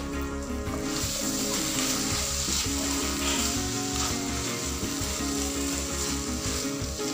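Minced pork and prahok sizzling as they are stir-fried in a nonstick pan, a spatula scraping through the mixture. The sizzle grows louder about a second in, over background music with a pulsing bass.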